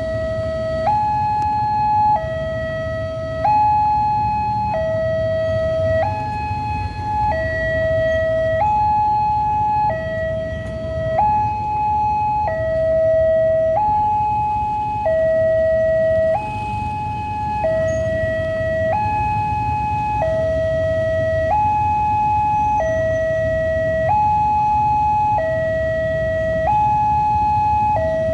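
Railway level crossing warning alarm sounding a two-tone signal, a lower and a higher electronic tone alternating about every second, which signals that a train is approaching and the barriers are down. A steady low rumble of idling traffic lies underneath.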